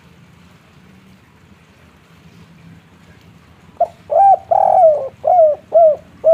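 Spotted dove (tekukur) singing its 'kuk 3' song. After a few seconds of faint background hiss, a quick run of low coos begins about four seconds in: a short note, then five coos, the second one longest, with the last still sounding at the end.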